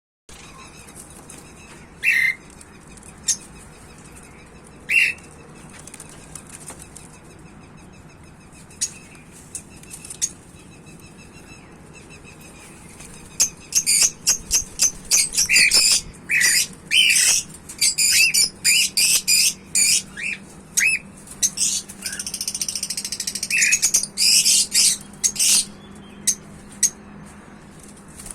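Pet birds calling: a few sharp chirps early on, then a dense run of short, shrill calls in the second half, with a brief warbling chatter.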